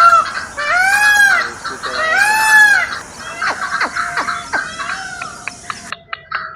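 Two loud, arched calls from a large fowl, each under a second long, followed by fainter short, sharp falling notes.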